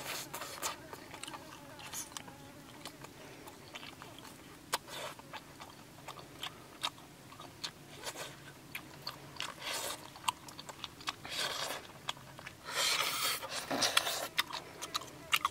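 Close-up mouth sounds of people biting and chewing cooked chicken off the bone: a run of short clicks and wet chewing noises, with a louder stretch of chewing near the end.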